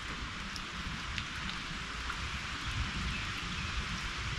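Heavy rain falling steadily, an even hiss with scattered ticks of single drops striking close by.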